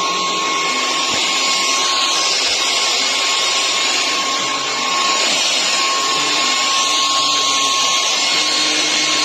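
Hoover HF3 cordless stick vacuum running steadily: a constant whooshing hiss of suction with a high motor whine.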